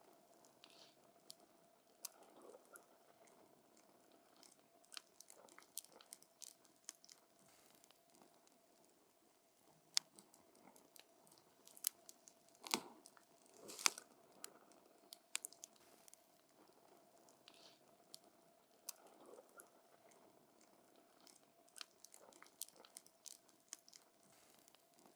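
Wood burning in a campfire, crackling with irregular sharp snaps and pops over a faint hiss. A few louder pops come near the middle.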